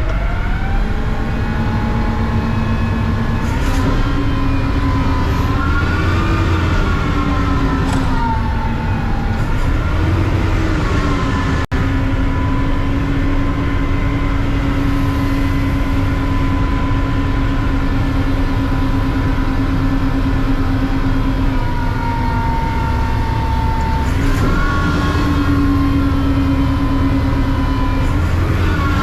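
Mack CNG chassis of a front-load recycling truck running under way, a low rumble with an engine tone that rises and falls with the revs several times, then holds steady for about ten seconds before rising again.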